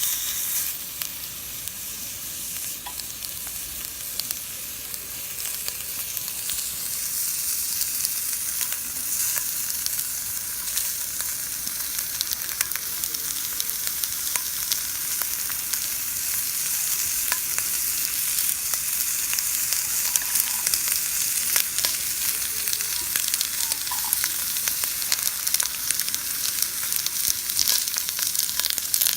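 Food sizzling in a grill pan over a campfire: a steady frying hiss dotted with many small sharp pops, getting slowly louder through the stretch.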